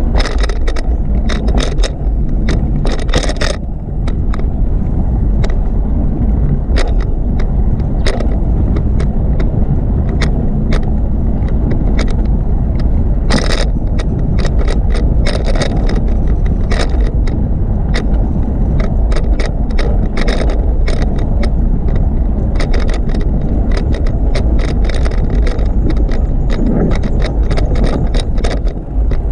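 Bicycle being ridden along a paved cycleway: a steady low rumble with frequent rattling clicks as it runs over bumps in the path.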